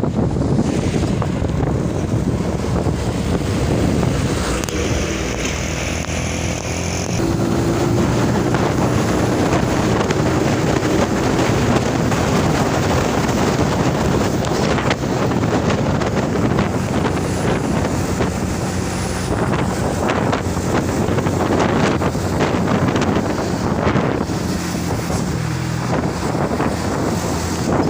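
Vehicle driving on the road: engine running under steady road and wind noise, with wind buffeting the microphone. A high steady tone sounds for a couple of seconds about five seconds in, followed by a lower steady tone for several seconds.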